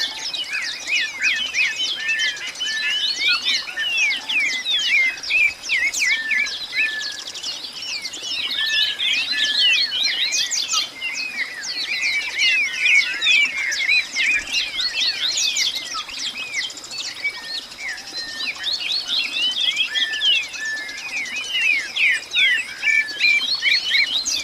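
A dense chorus of many birds chirping and calling at once, short quick rising and falling notes overlapping without a break.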